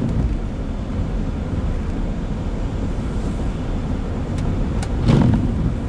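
Steady road and tyre noise inside a car driving on a wet, slushy road, with a brief louder swish about five seconds in.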